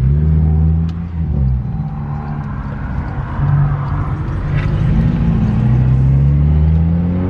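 Car engine running at low revs, its note dipping briefly about a second in and then rising steadily over the last couple of seconds as the car gathers speed.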